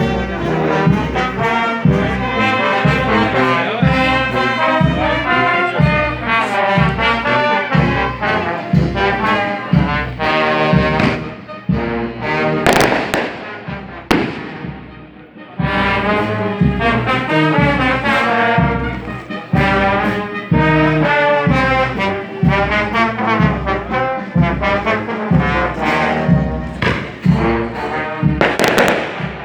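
Brass band playing a tune with trombones and trumpets over a steady bass beat. Two short bursts of loud noise cut across the music, one about halfway through and one near the end.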